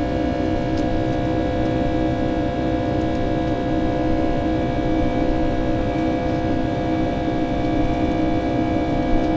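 Boeing 757-200's jet engines heard inside the passenger cabin in flight: a steady roar with several constant hums layered over it.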